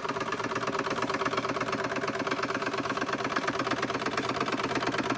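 Restored Wilesco D32 model steam engine running steadily, with a fast, even chuffing and clatter from its cylinder and moving parts: it is running smoothly.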